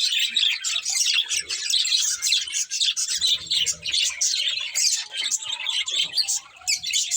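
Several budgerigars chirping and chattering in rapid, overlapping calls, with a brief lull near the end.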